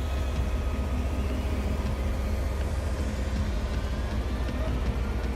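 A heavy engine running steadily with a low rumble and a constant background hiss.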